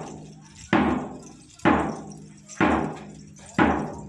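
Steady percussion beat for a rain dance: a single loud strike about once a second, four in all, each sharp and then dying away.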